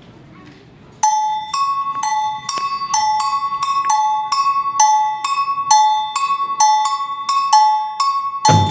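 A two-pitched metal bell struck in a quick repeating pattern, the low and high tones alternating with a ringing, clangy attack, starting about a second in. Near the end a full band with drums and bass enters.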